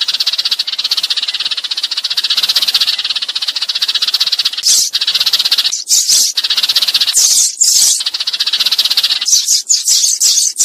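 Sparrows chattering in rapid, rattling runs, one long unbroken run and then shorter bursts. This is the flock-calling chatter used as a lure to draw wild sparrows in.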